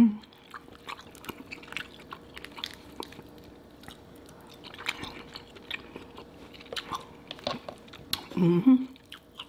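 Close-up mouth sounds of a person eating king crab meat: soft chewing with many short wet clicks and smacks. A brief voiced sound comes near the end.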